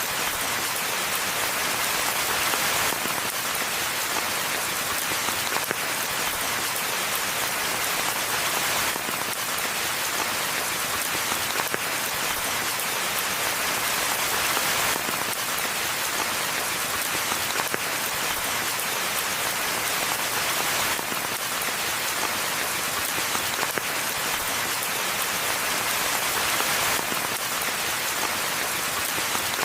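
Steady rain falling on a forest path and foliage, a dense patter of drops.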